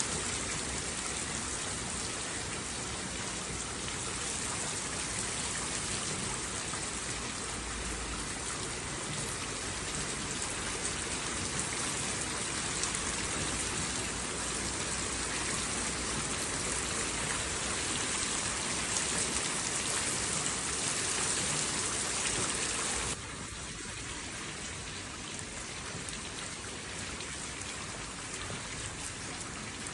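Steady rain falling, an even hiss of many drops. About three quarters of the way through it drops suddenly to a softer rain.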